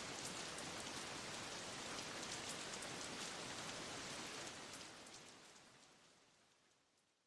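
Steady rain falling, an even hiss with fine scattered drop ticks, fading out over the last few seconds.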